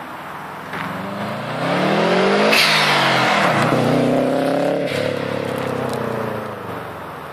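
Subaru Impreza WRX's engine through an aftermarket Japspeed exhaust, picking up from a steady note about a second in. The pitch climbs, drops sharply about halfway, climbs again, then falls away near the end.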